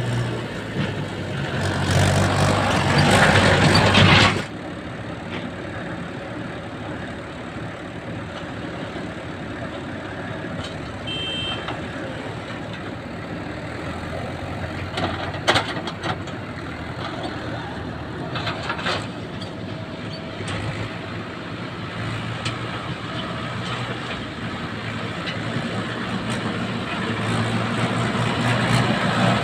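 Heavy vehicle's diesel engine running with a steady low hum. It is loud for the first few seconds, drops abruptly to a lower level, and swells again near the end.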